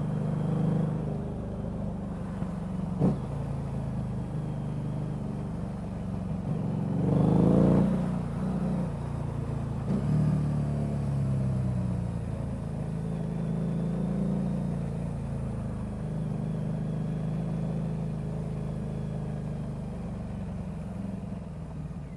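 Motorcycle engine running steadily in traffic, heard from the rider's camera, with one rising rev about seven seconds in that is the loudest part. Two brief sharp clicks sound about three and ten seconds in.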